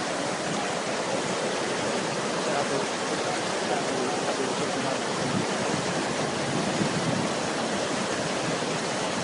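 Fast-flowing floodwater rushing, a steady noise with no break.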